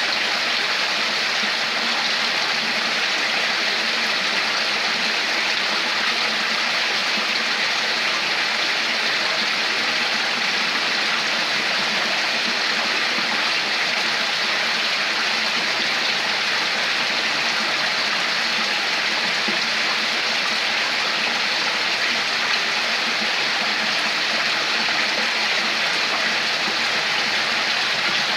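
Flowing water running steadily, a stream's constant, even rush with no change in level.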